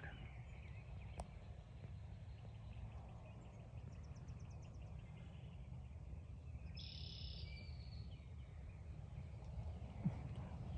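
Outdoor woodland ambience with a steady low wind rumble and small birds calling: a quick run of high ticks around the middle and a brief high call with a falling tail a little later.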